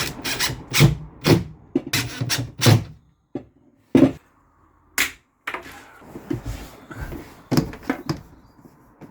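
Irregular sharp knocks and clunks of hands-on work: a quick run of them over the first three seconds, single knocks about four and five seconds in, then more scattered knocks.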